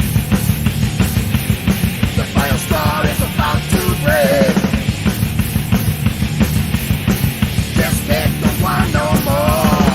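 Thrash metal band playing an instrumental passage: heavy distorted guitars and bass over fast, driving drums, with a melody line sliding and bending in pitch over the top.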